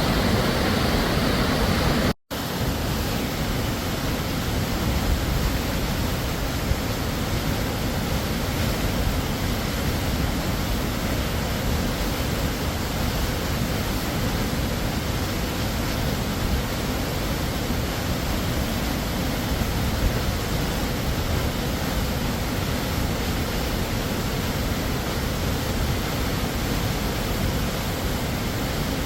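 Waterfall pouring as a steady, dense rush of water. About two seconds in it cuts out for a split second, then resumes slightly quieter.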